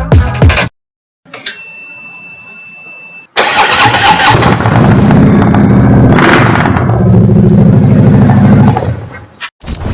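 Harley-Davidson V-twin engine starting: a faint steady whine, then the engine fires loudly about three seconds in and runs for about five seconds before fading out.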